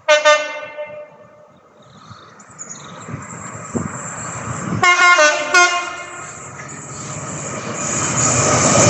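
GBRf Class 66 diesel freight locomotive sounding its two-tone air horn: one loud blast right at the start, then two short blasts about five seconds in. Under the horn, the rumble of the locomotive and its wagons grows steadily louder as the train comes through.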